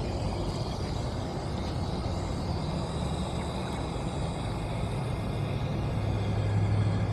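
Water running steadily from a hose into a bucket, a constant rushing with a low hum underneath.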